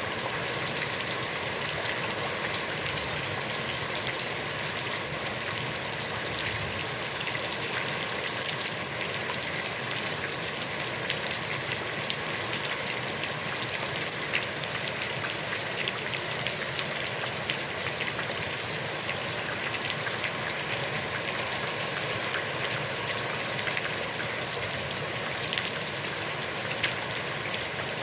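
Heavy rain falling steadily onto a pond's surface, a dense even hiss with many small drop patters.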